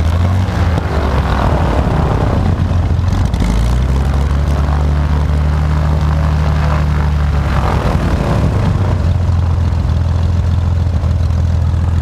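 Piper Lance's six-cylinder aircraft engine and propeller running on the ground, its speed changing a couple of times as the throttle is worked. This is a run-up to check that the engine now comes back to idle after its idle screw was reset.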